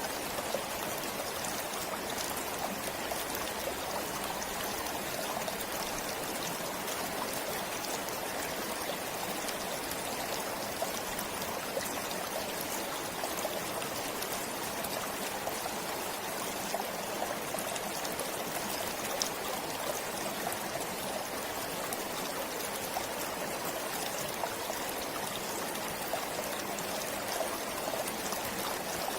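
Forest stream flowing steadily over stones, a continuous rushing with fine trickling and splashing.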